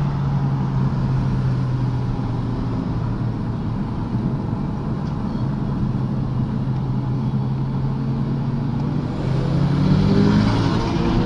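Car engine heard from inside the cabin, holding a steady note while cruising, then rising in pitch and getting louder from about nine seconds in as the car accelerates hard.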